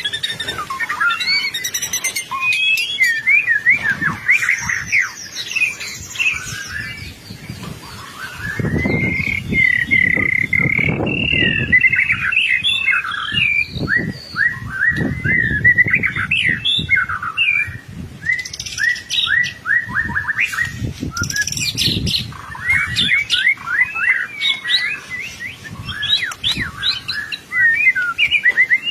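White-rumped shama (murai batu) singing continuously: a long, fast, varied song of rapid whistled notes, trills and slurred glides.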